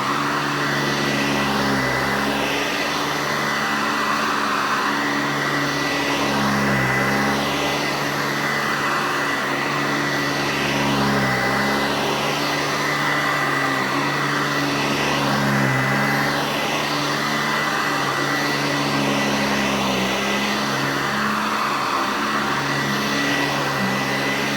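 Eureka Heavy Duty Commercial C2094 upright vacuum running, loud and screaming, its pitch dipping briefly and recovering every couple of seconds.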